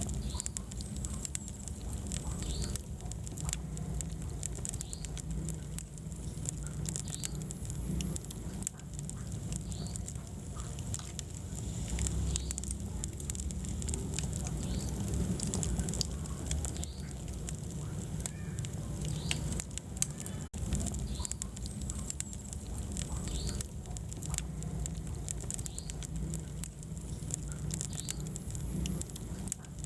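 Wood fire burning in a fireplace: a steady low rumble of flames with frequent crackles and pops throughout.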